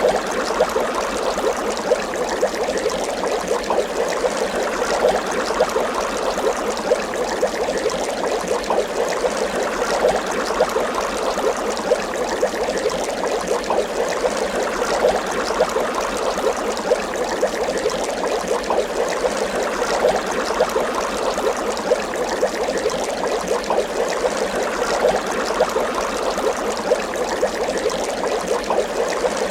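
Water bubbling continuously, a dense steady stream of small bubbles popping and gurgling.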